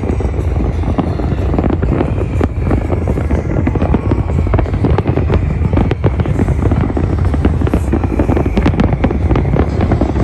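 Fireworks display: a dense, unbroken run of crackles and bangs over a steady low rumble.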